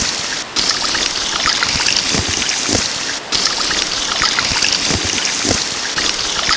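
Waterfall: a steady, loud rush of falling water with splashing, briefly dropping out twice.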